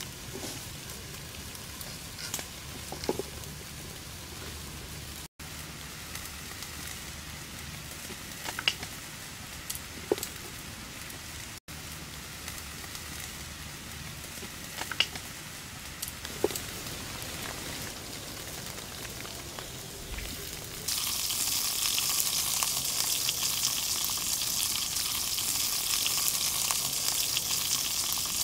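Open wood fire crackling with scattered sharp pops and snaps, then about three-quarters of the way through a loud, steady sizzle sets in as snake meat fries on a hot plate over the flames.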